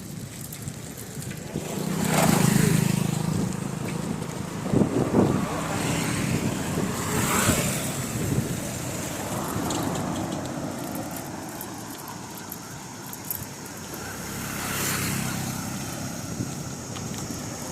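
Road traffic heard from a moving bicycle: vehicles pass one after another, several swelling and fading, over a steady rumble of road and wind noise.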